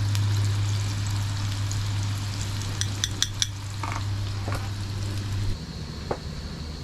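Battered fish fillets frying in hot oil, a steady sizzle. A few sharp metal clinks of a cooking utensil come near the middle, and a steady low hum stops suddenly about five and a half seconds in.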